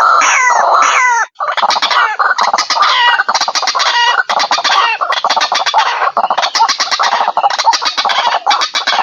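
White-breasted waterhens (ruak-ruak) calling. A run of quick falling notes, several a second, stops briefly about a second in. Then comes a dense stretch of rapid, overlapping calls.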